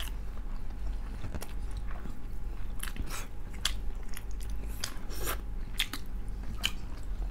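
Close-miked chewing and crunching of crispy pata (deep-fried pork knuckle), with irregular crisp crackles from the fried skin scattered through the chewing.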